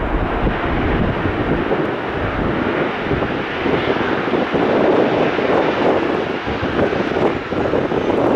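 Jet airliner's engines on landing approach, passing close and building to a peak about five seconds in, with gusty wind rumbling on the microphone.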